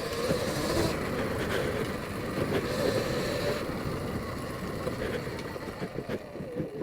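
Sur-Ron Light Bee X electric dirt bike under way: its motor and chain drive running with a wavering whine over road noise, the sound easing off near the end.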